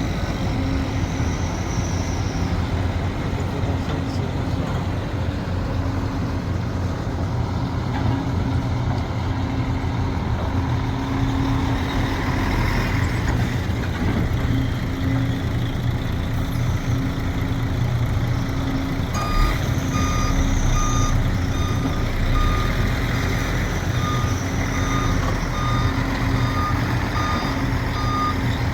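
Heavy diesel machine engine running steadily under load. From about two-thirds of the way in, a reversing alarm beeps at an even pace of about once a second.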